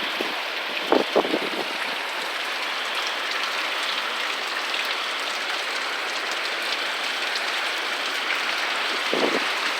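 Steady rain falling, an even hiss with a couple of brief louder sounds about a second in.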